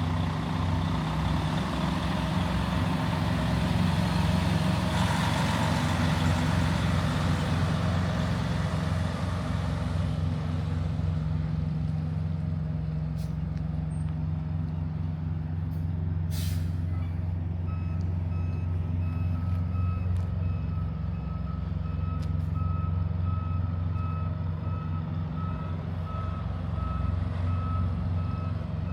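Diesel truck engine idling steadily, with a hiss that fades away over the first ten seconds. A short sharp noise comes just past halfway, then a reversing alarm starts beeping repeatedly.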